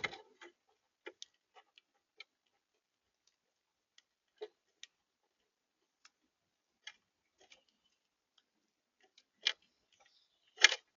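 Irregular sharp taps and clicks, a blue jay's beak pecking at food on a feeder, with two louder knocks near the end.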